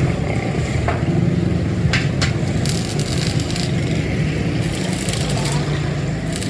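A machine running with a steady low hum, with a few sharp ticks and short bursts of hiss over it.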